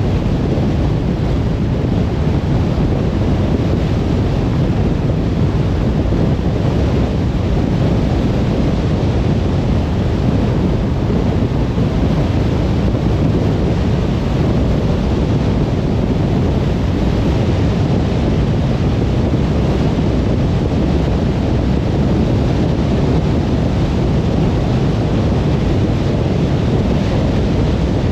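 Steady road noise of a car driving on a motorway: an even rumble of tyres and wind, heaviest in the low end, with no changes in pitch or level.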